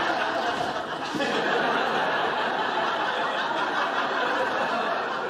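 Studio audience laughing: one long swell of laughter that tapers off near the end.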